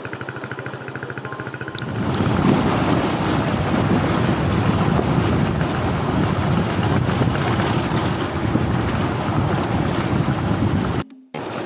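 Wind buffeting the microphone in a loud, steady, rough rush. It starts about two seconds in, after a fainter evenly pulsing sound, and briefly cuts out near the end.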